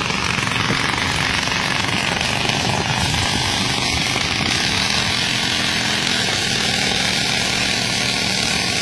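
Small motorcycle engine running steadily through a raised exhaust, with a strong hissing noise over it.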